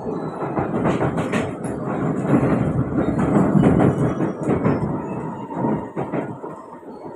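Kawasaki-Sifang C151B metro train running between stations, heard from inside the carriage: a steady rumble and rush of wheels on rail that swells in the middle and eases toward the end, with a few clacks.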